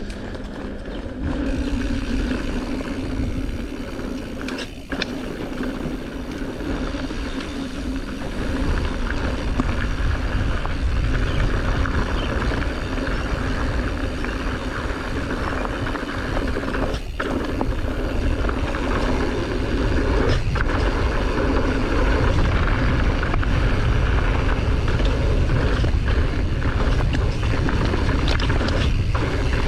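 Mountain bike rolling down a rough, muddy dirt driveway: a steady rumble of tyres and riding noise that gets louder as speed builds, with a few sharp knocks from bumps.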